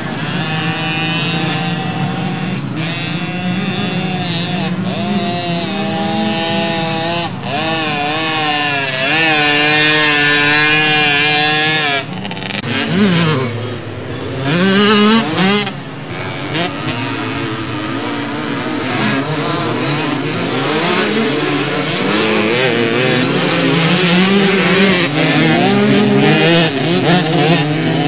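Several motocross bikes racing, engines revving up and down through the gears. They are loudest and highest about eight to twelve seconds in, as a group passes close, then drop in pitch and come round again.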